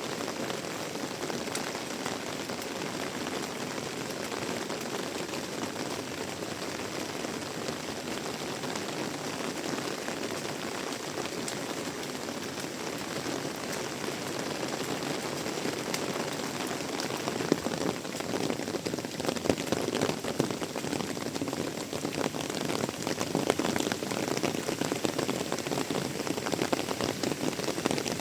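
Heavy tropical rain pouring steadily, a dense hiss of drops on surfaces. Past the middle it turns louder and more spattery, with many sharp individual drop impacts.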